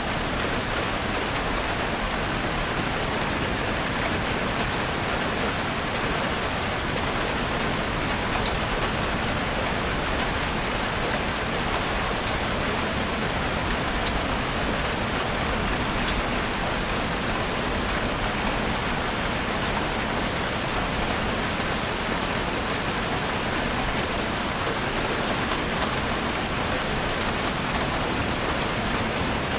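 Heavy rain drumming steadily on a roof, a dense even hiss with countless individual drop impacts.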